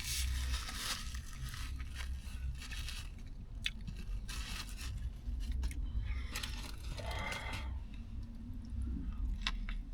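Close-up chewing of a turkey bacon ranch sub sandwich: wet mouth clicks and crunching of the bread and bacon, with scattered sharp smacks.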